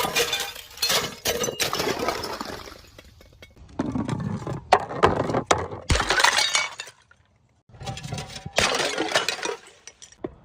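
Glass bottles shattering one after another: several bursts of crashing and tinkling shards, with a brief near-silent pause about seven seconds in.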